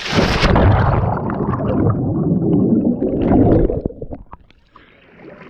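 A person jumping into a swimming pool: a sharp splash on entry, then about four seconds of churning, gurgling water that stops abruptly.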